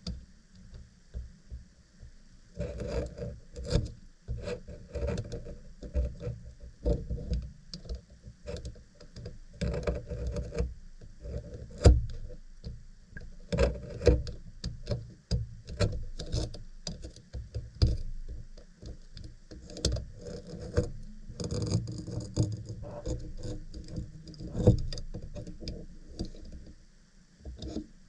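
Irregular clicks, knocks and rattles of small objects being handled, starting a couple of seconds in and dying away near the end.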